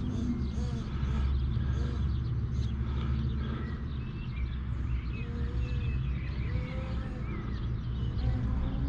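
Steady low rumble of wind on the microphone, with birds chirping faintly now and then in the second half.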